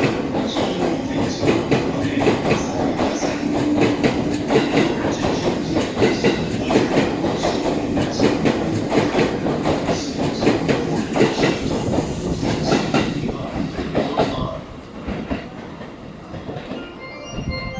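A train passing through a station platform without stopping, its wheels clattering rapidly over the rail joints for about fourteen seconds before the sound drops away. Near the end, a station chime of stepped tones begins.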